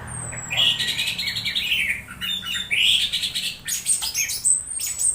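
Orange-headed thrush singing the varied, scratchy 'strange' song it gives while being misted: rapid chattering phrases broken by short pauses. A thin, high whistle slides down near the start and again near the end.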